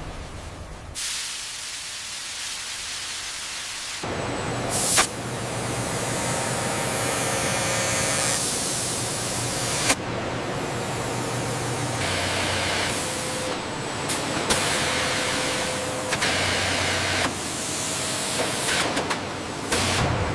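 Steady hissing like escaping air or steam over a low machine hum in a large factory space. The sound shifts abruptly every few seconds, with a sharp click about five seconds in and another near the middle. It is softer and mostly high hiss for the first few seconds.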